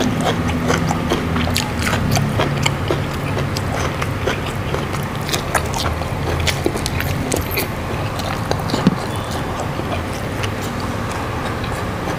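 Close-miked eating: a person chewing and crunching food with many short wet mouth clicks. A steady low hum runs underneath, fading after about two seconds.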